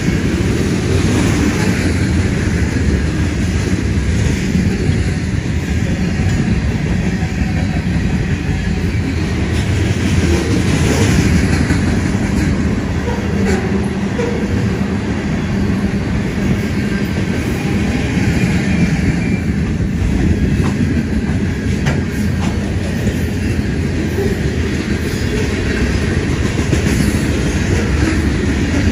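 Freight train of tank cars and covered hoppers rolling past: a steady rumble of steel wheels on rail with clickety-clack and a few sharp clanks.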